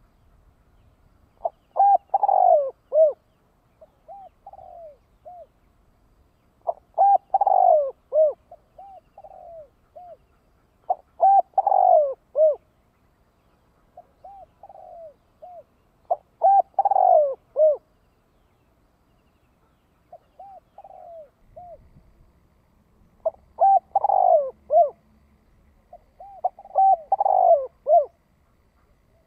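Male spotted dove (chim cu gáy) calling over and over in the fast, urgent style that bird-keepers use to draw in wild doves. Each loud phrase of several coos is followed by a quieter, shorter group of coos, with a new phrase roughly every four to five seconds and a longer pause about halfway through.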